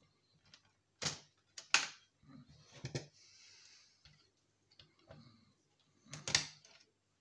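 Scattered sharp clicks and knocks of metal and plastic parts being handled as a scrap DVD player is taken apart by hand, with a short scraping hiss about three seconds in.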